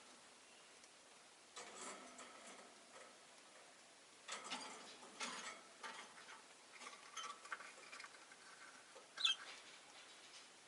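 Rosy-faced lovebirds moving about their cage: a few short bursts of soft rustling and clicking, and one brief high chirp about nine seconds in.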